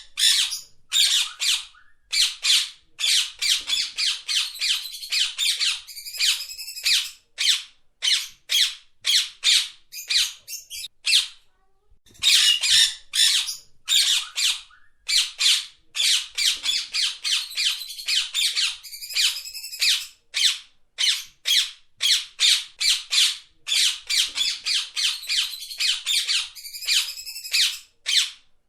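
Parrot squawking in a long run of short, harsh calls, two or three a second, with a brief pause about eleven seconds in.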